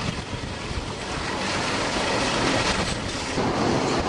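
Passenger train running, heard as a steady rushing noise with wind buffeting the microphone, growing slightly louder toward the end.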